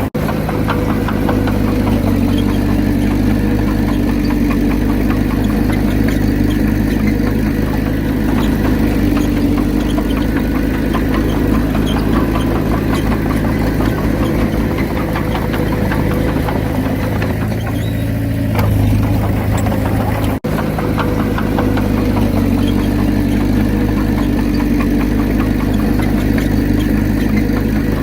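Diesel engine of a Komatsu D31P crawler bulldozer running steadily. There is a brief dip about 19 seconds in and a short break about 20 seconds in.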